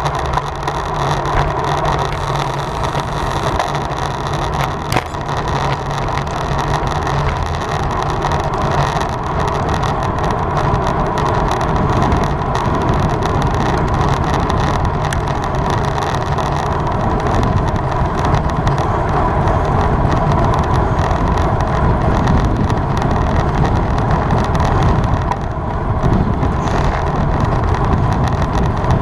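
Steady rush of wind and tyre noise from a road bike ridden at race speed.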